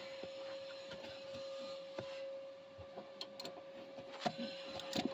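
Torque wrench being worked on a suspension nut: scattered sharp metallic clicks, a few in quick succession around the middle and near the end, over a steady faint hum.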